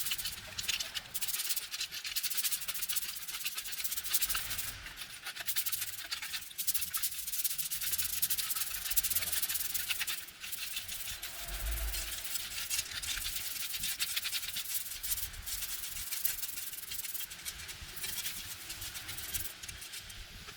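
Continuous scratchy scrubbing or scraping of a hard surface, many rapid strokes with a few brief pauses.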